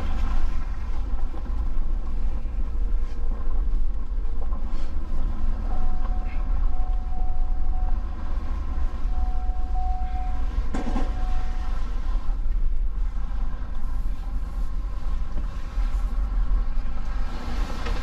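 Plow truck driving, a steady low engine and road rumble. A faint high steady tone comes in for several seconds in the middle, and there is a single knock about eleven seconds in.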